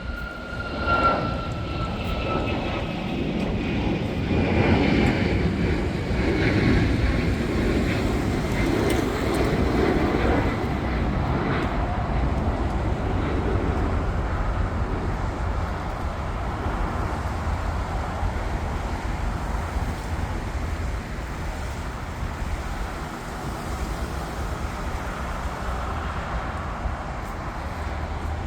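Jet airliner engines passing: a high whine falls in pitch over the first few seconds over a loud rumble, which peaks a few seconds in and then carries on steadily.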